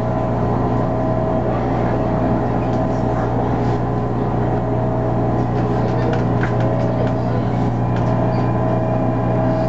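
Cabin running noise of an MTR A-Train electric multiple unit: a steady rumble with a level motor hum and a few light clicks and rattles.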